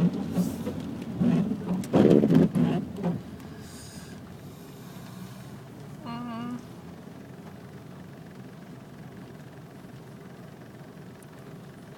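Steady car cabin noise while driving on wet roads in rain, with loud voice sounds in the first three seconds and a short wavering tone about six seconds in.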